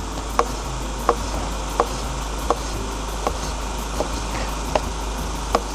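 A sharp knife slicing through tomatoes and tapping the cutting board, about eight evenly spaced chops, over a steady rushing background noise.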